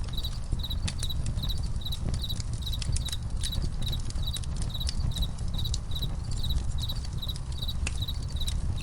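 Campfire crackling with irregular sharp pops over a low steady rumble, while crickets chirp in a steady run of short high chirps, several a second.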